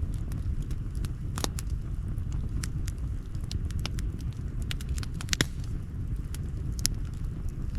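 Campfire crackling: burning wood gives off sharp pops and snaps at irregular intervals, a few of them louder, over a steady low rumble.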